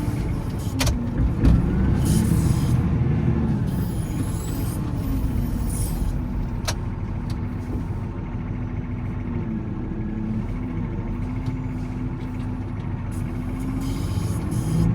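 Volvo L70C wheel loader's diesel engine running under load while plowing snow. The engine pitch wavers in the first few seconds and then holds steady, with two sharp clicks, one about a second in and one midway.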